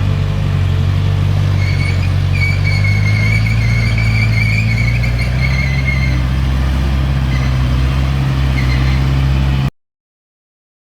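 Heavy construction machine's diesel engine running steadily, with a wavering high squeal over it for a few seconds; the sound cuts off suddenly near the end.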